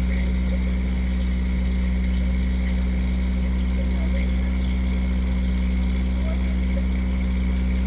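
A boat's engine running steadily at a constant speed: a low, even drone with no change in pitch.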